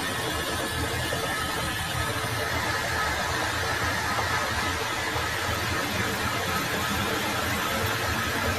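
Metal lathe running steadily, a continuous mechanical hum mixed with machining noise.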